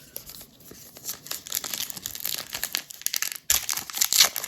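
A baseball card pack's wrapper being torn open and crinkled, a dense crackle that stops for a moment about three and a half seconds in, then comes back louder.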